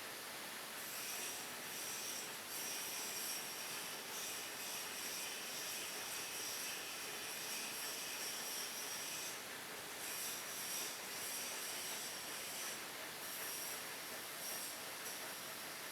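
Weipert heavy facing lathe running: a high-pitched whine that sets in about a second in and drops out briefly twice, over a steady hiss.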